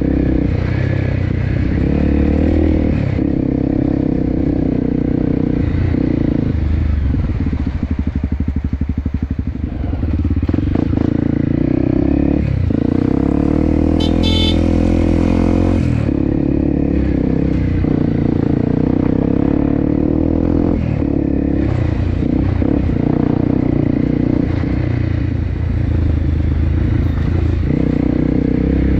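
A small engine running steadily, its pitch shifting up and down every few seconds.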